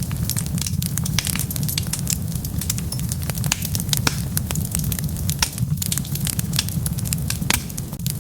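Wood fire burning, with a steady low rumble of the flames and frequent sharp crackles and pops from the burning logs.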